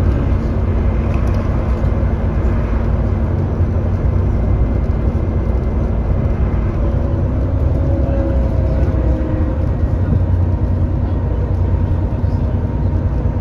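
Onboard sound of an Alexander Dennis Enviro400 double-decker bus under way, its 6.7-litre Cummins ISB diesel engine giving a steady, loud low drone. The bus has an exhaust leak. A faint whine rises around the middle.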